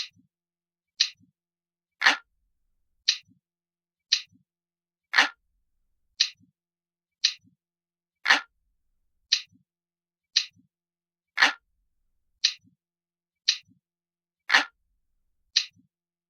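Analog clock ticking sound effect: a sharp, steady tick about once a second, each with a faint low knock just after it.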